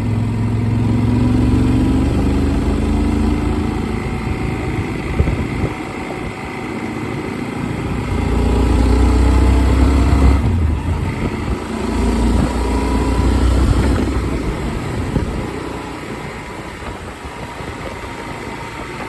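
Motorcycle engine running on the move, its pitch rising and falling several times with the throttle, under gusts of wind rumble on a phone microphone mounted on the rider's helmet.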